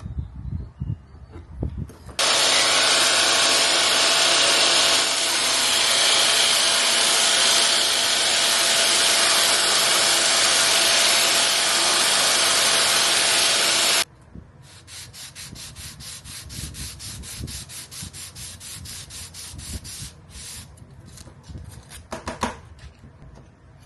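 A bone blank for a guitar saddle being sanded. A loud, steady machine sanding noise starts suddenly about two seconds in and cuts off abruptly near fourteen seconds. After it come fast, regular rubbing strokes, about five a second, that stop shortly before the end.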